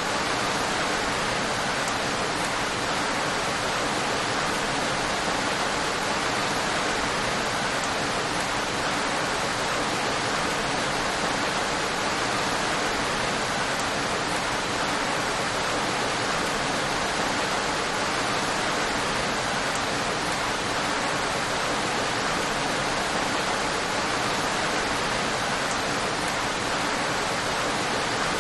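Steady rain falling, a dense, even hiss with no single drops standing out.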